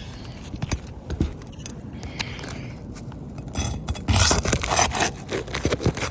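Shingle bar scraping and prying under a 20-year-old three-tab asphalt composition shingle, a few sharp clicks at first and then loud rough scraping from about three and a half seconds in. The worn shingle gives with little to no effort, its nails pulling through the deteriorated mat.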